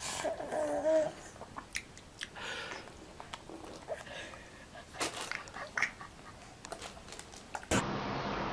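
A baby mouthing and chewing a lemon: scattered wet mouth smacks and clicks, with a brief pitched baby vocal sound about half a second in. Near the end it switches abruptly to a steady hiss.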